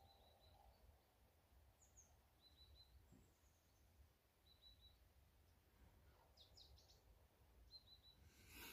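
Very faint, brief, high bird chirps, four or five of them a couple of seconds apart, over a low rumble.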